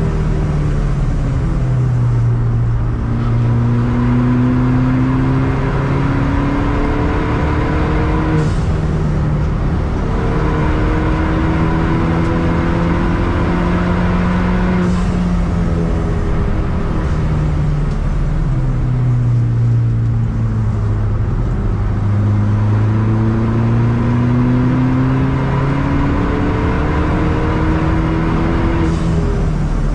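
Ford Fiesta ST180's turbocharged 1.6-litre four-cylinder engine heard from inside the cabin at racing speed on track. The engine note climbs in long pulls under full throttle, with short breaks at the gear changes, then falls back when the driver lifts off and brakes near the end.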